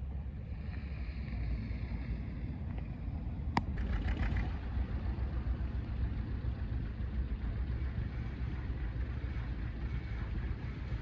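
Low, steady engine rumble, with one sharp click about three and a half seconds in.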